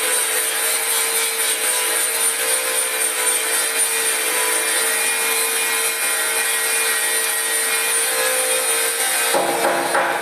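Power tool working metal: a steady, harsh hiss over a held motor whine. About nine seconds in it cuts off abruptly and a different, beat-like sound takes over.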